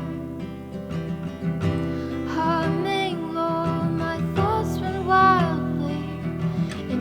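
Song with strummed acoustic guitar and a singing voice holding long sung notes.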